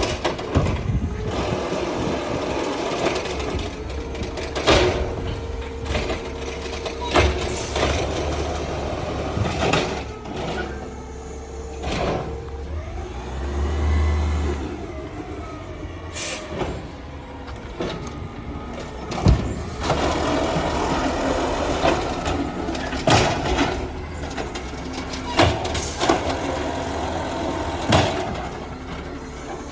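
Battle Motors Amrep automated side-loader garbage truck working: the engine runs steadily while sharp bangs and knocks come every two to three seconds. Around the middle a mechanical whine rises and falls in pitch.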